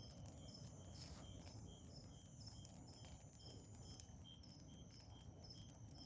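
Faint chirping of a night insect: a short high chirp repeated about two to three times a second. A few faint crackles from a wood bonfire are also heard.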